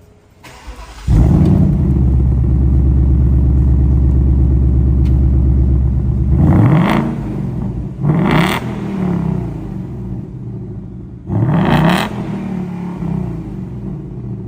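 Ford Mustang engine started with its exhaust valves in track mode: a moment of starter cranking, then it fires loudly about a second in and holds a steady fast idle for about five seconds before the idle drops. Three quick throttle blips follow, each rising and falling in pitch.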